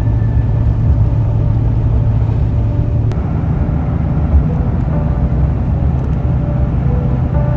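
Steady low road-and-engine rumble of a truck driving down the road. Faint music comes in about five seconds in.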